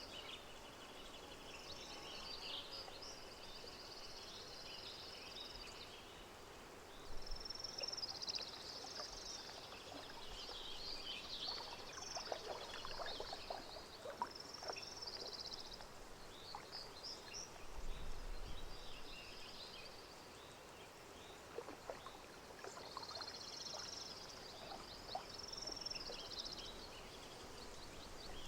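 Lakeside nature ambience: songbirds singing in repeated chirping, trilling phrases over a soft wash of gentle water with small splashy ticks.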